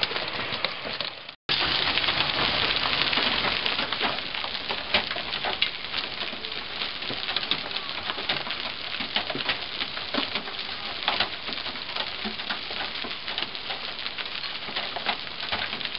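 Hail falling hard: a dense, steady clatter of many stones striking, with a brief dropout about a second and a half in.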